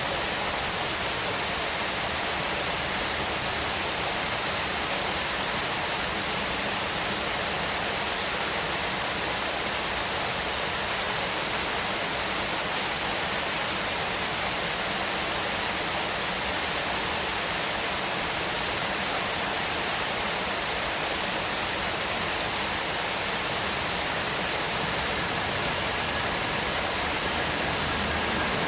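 Waterfall rushing in a steady, even wash of falling water.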